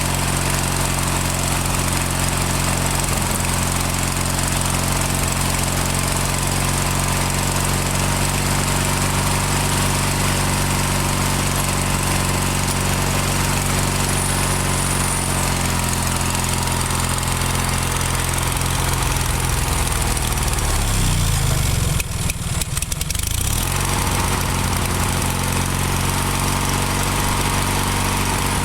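Briggs & Stratton 17 hp opposed-twin engine of a Murray GT garden tractor running steadily, idling a little high. About 21 s in its speed sags sharply, then picks back up a few seconds later. The owner puts the rough running down to a carburetor still full of mud and water.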